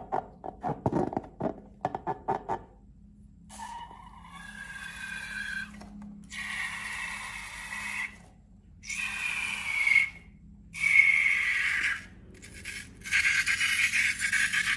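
Balloon squealing as air escapes through its stretched neck, in five bursts of hiss with a wavering high squeal. Before them comes a run of quick clicks.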